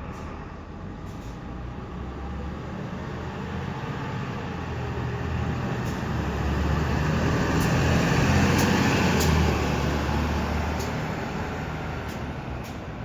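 Toei city bus pulling away from a stop, its engine running as it moves off and passes. The sound grows louder to a peak about eight to nine seconds in, then fades.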